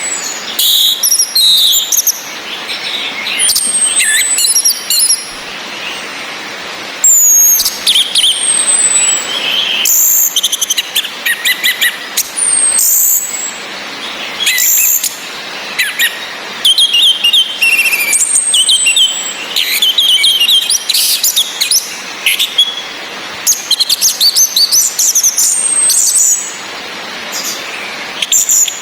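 Orange-headed thrushes calling and singing: a high whistle that slides down in pitch comes every few seconds, with a male's varied song phrases in between, over a steady hiss of rain.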